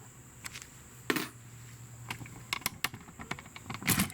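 Small metal brake-caliper parts and tools being handled, clinking and knocking: a run of sharp clicks, with louder knocks about a second in and near the end.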